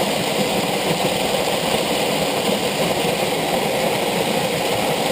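Waterfall pouring steadily, a close, even rush of water.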